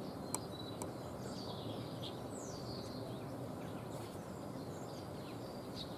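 Faint small-bird calls and chirps, including one falling chirp, over steady outdoor background noise, with two sharp clicks in the first second.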